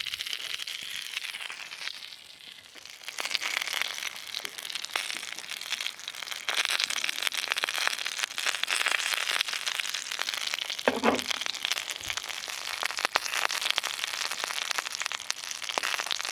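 Wood fire crackling and popping, with many sharp small snaps over a steady crackle. A short ringing sound breaks in about eleven seconds in.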